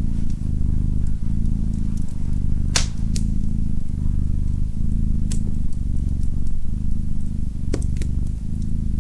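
Domestic cat purring close up, a low steady rumble that pulses with each in- and out-breath, under the snap of a wood fire crackling a few times, loudest about three seconds in.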